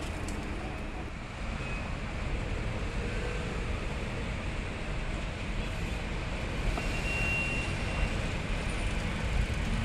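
Electric train rumbling across a steel truss railway bridge over steady city traffic noise, growing gradually louder as the train comes on, with a faint thin whine around the middle.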